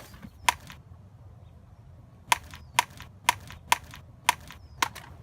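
Sharp, hollow knocks of stage-duel props striking each other: two blows, a pause of about a second and a half, then six more in quick succession about half a second apart.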